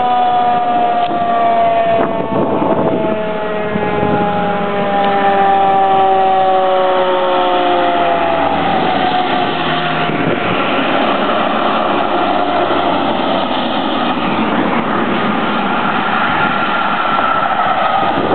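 Fire apparatus responding with siren: the siren's tone slides slowly downward over the first eight seconds, then heavy vehicle engine and road noise takes over as the trucks drive past, with a fainter siren tone wavering near the end.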